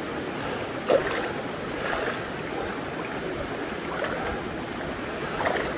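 Steady rush of a mountain stream's flowing water, with one brief louder sound about a second in.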